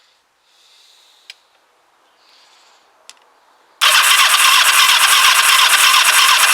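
Two faint clicks, then about four seconds in the starter motor begins cranking the Kawasaki GPZ500S parallel-twin engine: a loud, steady, fast-pulsing whirr with no firing, because the engine has no spark.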